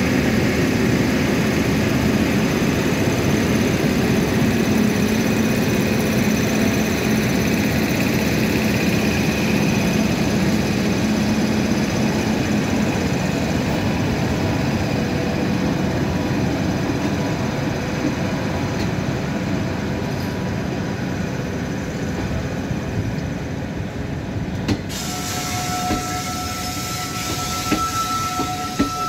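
Express train running through a railway station: a loud, steady rumble of wheels on rail that slowly fades. Near the end the sound changes suddenly and a steady high-pitched tone sets in.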